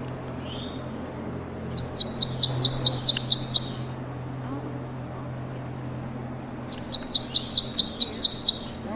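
Prothonotary warbler singing: two bouts of about nine loud, clear, upslurred 'sweet' notes repeated on one pitch, about four a second, one bout about two seconds in and another near the end.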